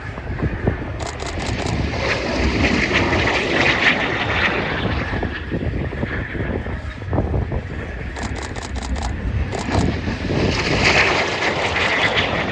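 Aero L-39 Albatros jet trainers passing low. The jet noise is loud throughout and swells twice as the jets go by, about two to five seconds in and again near the end, with wind buffeting the microphone.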